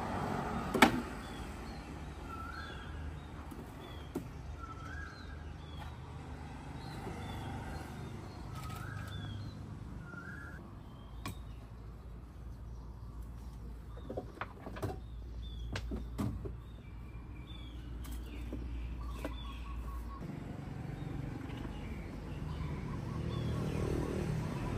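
Birds calling outdoors: a short two-part call repeated several times, with fainter high chirps. A few sharp clicks and knocks come through, the loudest about a second in, over a low steady hum that stops about four-fifths of the way through.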